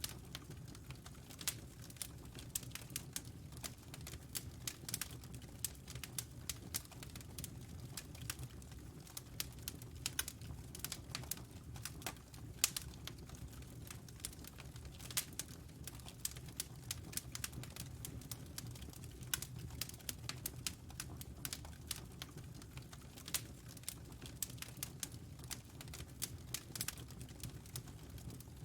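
Wood fire crackling in a fireplace: irregular sharp snaps and pops, several a second, over a steady low rumble of the flames.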